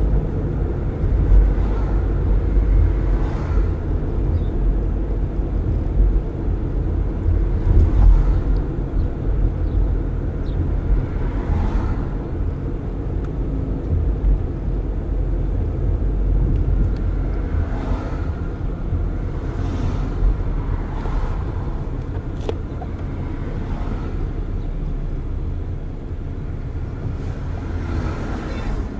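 Road noise from inside a car driving with its windows open: a steady low rumble of tyres and engine, with other traffic swelling past every few seconds. The level drops a little near the end.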